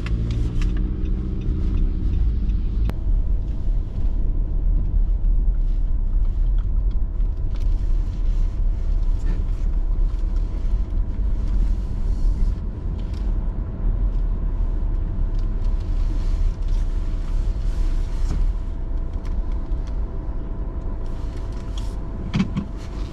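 Car driving on the road, heard from inside the cabin: a steady low rumble of engine and tyres. The engine note rises briefly at the start as the car pulls away, and a faint steady tone sounds through most of it.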